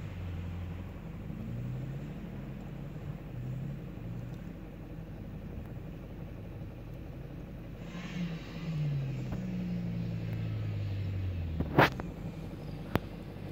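Subaru Legacy engine revving up and down as the car drifts through snow, its pitch climbing and falling in repeated waves, with a longer climb in the last few seconds. Near the end a sharp knock, the loudest sound, is followed a second later by a smaller click.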